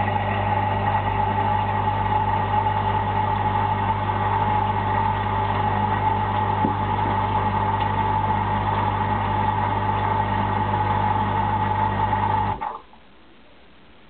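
Indesit DSG 263EU dishwasher's pump motor running with a steady low hum and a higher whine, cutting off suddenly near the end.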